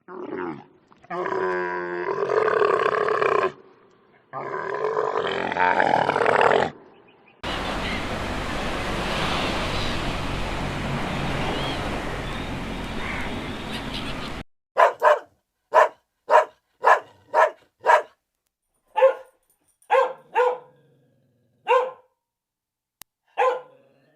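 A dog barking, about a dozen short, sharp barks in uneven bursts over the second half, after two drawn-out animal calls and a stretch of steady noise.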